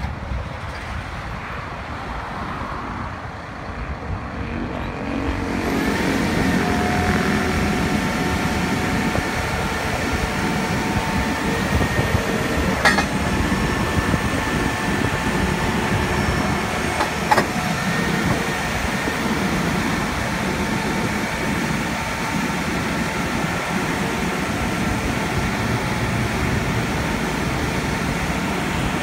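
Cat TL1255C telehandler's diesel engine running steadily, getting louder about six seconds in, with a steady whine over it. Two sharp clicks come a few seconds apart around the middle.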